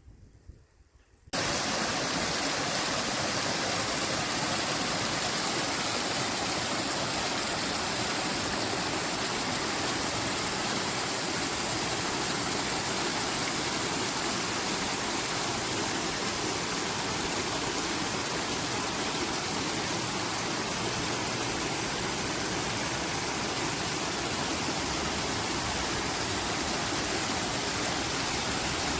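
Rushing water, a steady even rush that starts abruptly about a second in.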